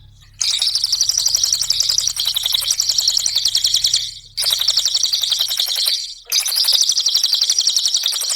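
Cililin bird singing its rapid, chattering trill: very fast repeated high notes in three long bouts, with two short breaks between them.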